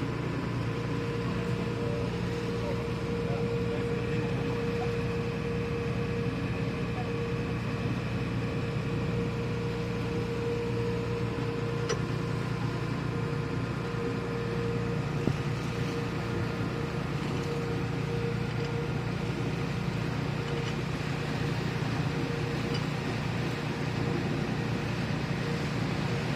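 Boat engine running at a steady pace, a constant low drone with an even hum over it.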